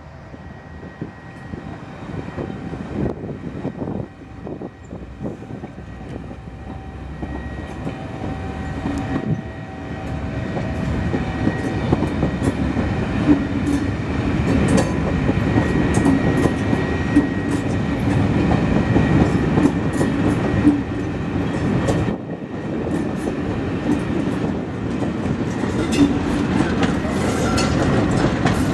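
Passenger coaches rolling past at close range: steel wheels clicking over rail joints, the rumble growing louder from about ten seconds in. A steady low drone underneath comes from the trailing class 47 diesel locomotive drawing near.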